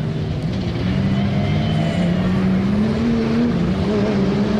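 Off-road 4x4's engine running at fairly steady revs as it drives along a dirt track, its note rising a little about three seconds in.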